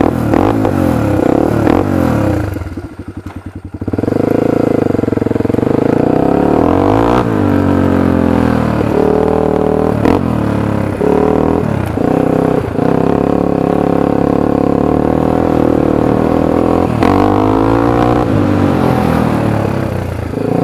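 Honda 300EX ATV's single-cylinder four-stroke engine through an FMF full exhaust, revved hard over and over, its pitch rising and falling with throttle and shifts. About two and a half seconds in, the throttle is chopped to a lumpy idle for a second before the engine revs up again.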